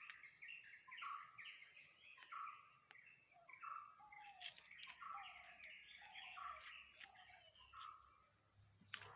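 Faint birdsong: a bird repeating short chirping notes about twice a second, some of them falling in pitch, over a steady thin high tone.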